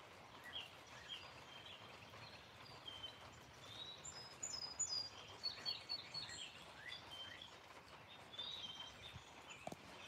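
Wild songbirds chirping, many short high calls scattered throughout, over a faint steady hiss.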